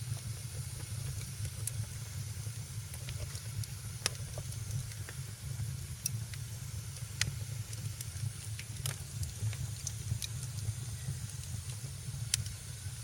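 Wood fire crackling in a fireplace: a steady low rumble and hiss of the flames, with sharp pops and snaps scattered through, a handful of them louder.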